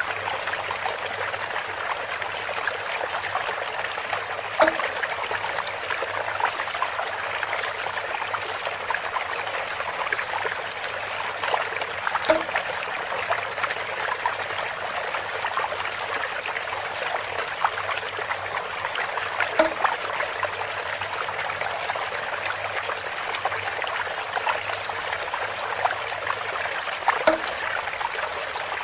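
Water trickling steadily through a bamboo water feature, with a hollow, pitched knock four times, about every seven and a half seconds.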